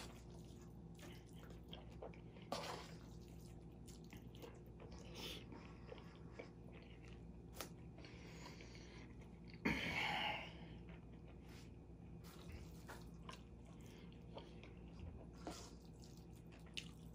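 Quiet chewing and eating by hand from a stainless steel bowl of chicken and rice, with scattered soft clicks and short noises and one louder brief noise about ten seconds in. A faint steady low hum runs underneath.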